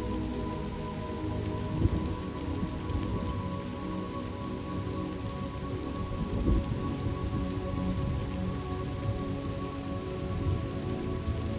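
Steady rain falling, with low thunder rumbles swelling about two seconds in and again just past the middle, over soft sustained tones of an ambient music drone.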